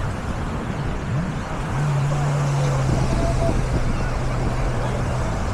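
Beach ambience of surf and wind noise with faint distant voices; about two seconds in, a steady low motor drone sets in and holds, dropping slightly in pitch soon after.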